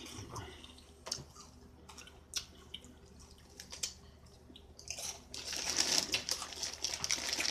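Crunchy chewing of Flamin' Hot Funyuns onion-flavoured rings, with scattered short crunches. About five seconds in, the snack bag is crinkled loudly as it is handled.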